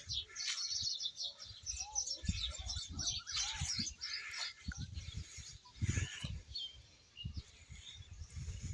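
Small birds chirping, many short calls overlapping in quick succession, with irregular low rumbling thumps underneath.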